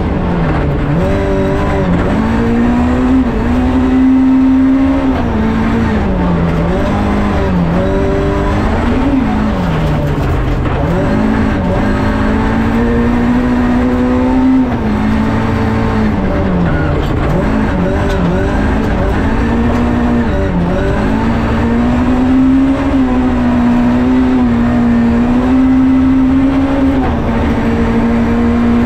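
Rally car engine heard from inside the cabin, running at steady revs that drop sharply and climb back several times as the driver lifts off and shifts for corners, over a constant low road rumble.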